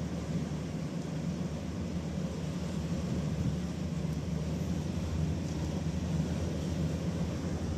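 A boat's engine running steadily with a low, even rumble.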